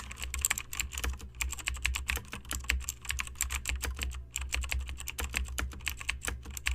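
Rapid typing on a computer keyboard: a dense, irregular run of key clicks over a steady low hum, which cuts off abruptly.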